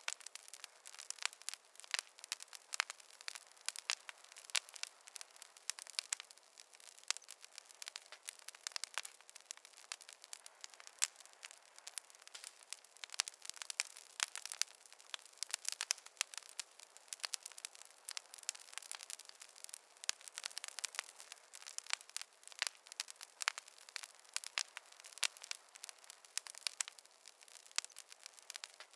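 Campfire crackling: a steady stream of quick, irregular small pops and snaps over a faint hiss.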